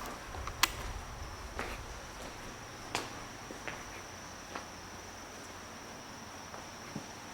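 Insects chirring, one steady high-pitched tone, with a few scattered short clicks over it.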